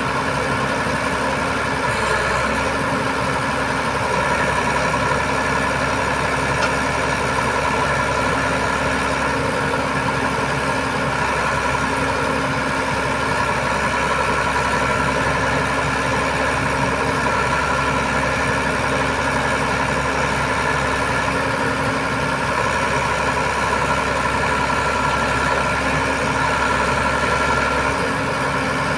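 Heavy diesel engine idling steadily, a constant hum with no revving or changes in pitch.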